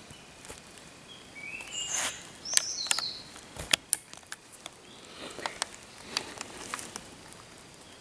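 Birds calling in a few short whistled notes that step up in pitch, among scattered sharp clicks.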